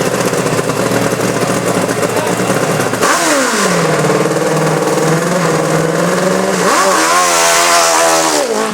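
Hill-climb motorcycle engine running at the start, then revved. Its pitch drops about three seconds in, climbs sharply near seven seconds and holds high, then falls away at the very end.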